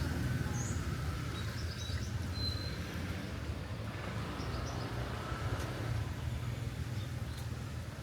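Outdoor ambience of a steady low rumble, with small birds chirping briefly several times over it.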